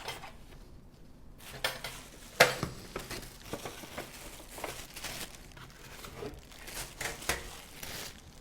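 Unboxing handling: packaging crinkling, with scattered knocks and clinks as the toaster oven's removable parts are moved and set aside; the sharpest knock comes about two and a half seconds in.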